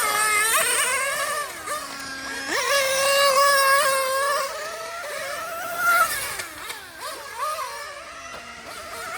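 Nitro RC car's OS Speed 2103R .21 glow engine running at high revs. The high-pitched note repeatedly rises under throttle and falls away as it lifts off or passes by.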